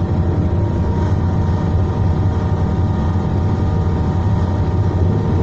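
Steady low drone heard inside a Class 221 Super Voyager diesel-electric train's carriage as it runs, the underfloor diesel engine humming with several steady tones above it.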